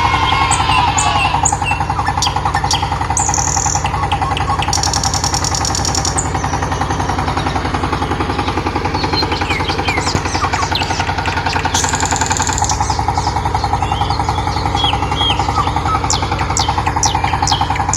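Small electric motor of a homemade mini tractor running steadily with a fast, even buzzing rattle, with short high chirps scattered over it.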